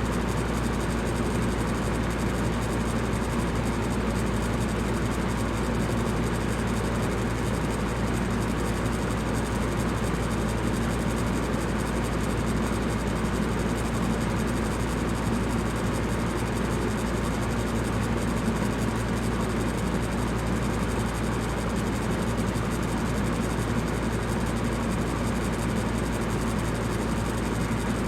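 Electric fan running steadily: a constant whooshing hum, strongest low down, with no change in pitch or level.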